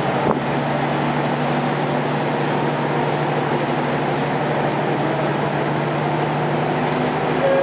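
Diesel railcar running along the line, heard from inside the passenger cabin: a steady low engine hum over continuous wheel-and-rail noise, with a short click about a third of a second in.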